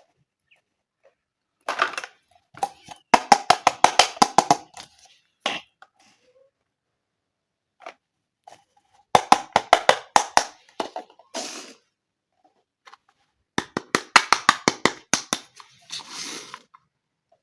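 Small hard plastic toy pieces being handled, clicking in three quick runs of about ten clicks a second, with brief rustling between the runs.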